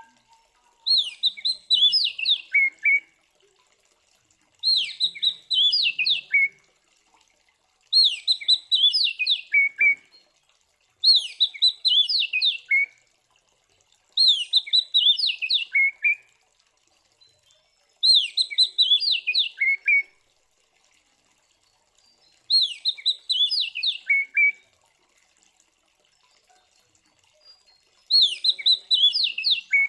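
Oriental magpie-robin (kacer) singing loud, clear song. The same roughly two-second phrase of falling whistled notes comes eight times, every three to four seconds.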